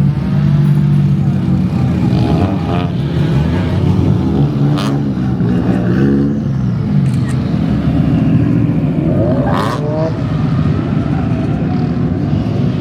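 Drift car engine running loudly, its revs wavering and shifting up and down, with two short sharp cracks about five and ten seconds in.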